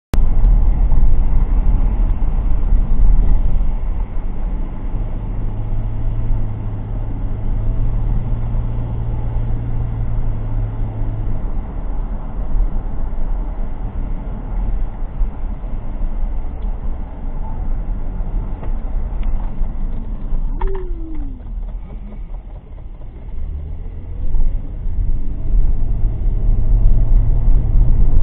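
Road and engine noise from a moving car, as picked up by a dash cam's microphone: a steady low rumble that eases off about two-thirds of the way through and builds up again near the end.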